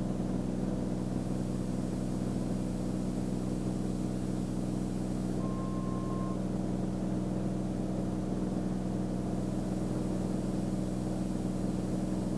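Beechcraft Bonanza's piston engine and propeller droning steadily in the cabin during the climb after takeoff, with a brief single beep about halfway through.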